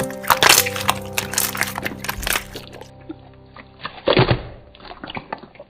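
Background music with held tones over slime being pressed and squeezed, giving many sharp crackles and pops. A loud cluster of crackles comes about four seconds in.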